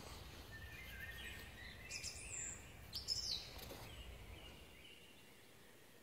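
Faint bird calls: a few short, high chirps about two and three seconds in, over a low rumble that drops away about five seconds in.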